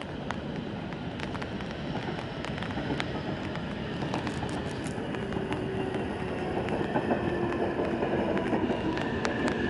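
JR E657 series electric limited-express train running through the station, growing louder. Its wheels rumble and click on the rails, and a steady whine comes in about halfway through.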